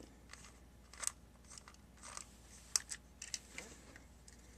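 Screwdriver turning out the small screw on the bottom of a plastic TrackMaster toy engine: faint, scattered clicks and short scrapes of metal on screw and plastic.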